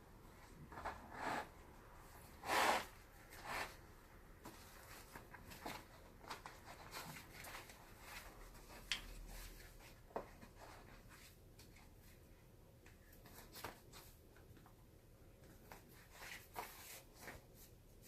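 Scattered rubs, scrapes and light clicks of hands working on a leather baseball glove during repair, the loudest a brief scrape about two and a half seconds in.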